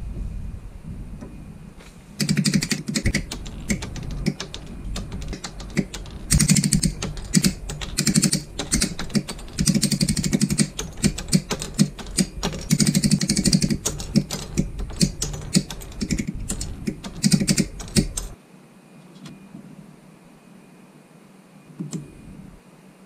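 Rapid, dense clicking and snapping of a plastic model kit being assembled. It starts about two seconds in and cuts off abruptly near the end.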